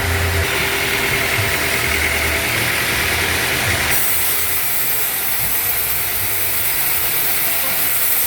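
Band sawmill machinery running steadily, a motor hum under a broad hiss; about halfway through, a sharp high hiss starts suddenly and holds.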